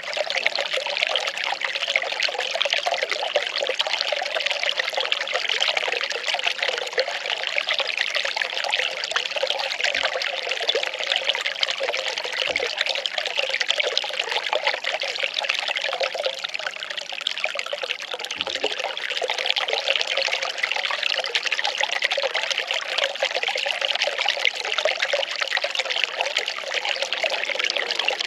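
Well water pouring and trickling in a steady, unbroken flow.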